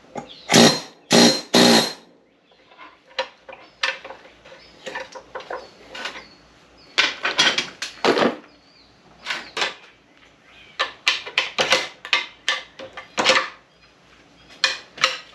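Metal-on-metal strikes, irregular and of varying force, as a bearing is driven off an SM465 transmission shaft; the three hardest blows land in the first two seconds.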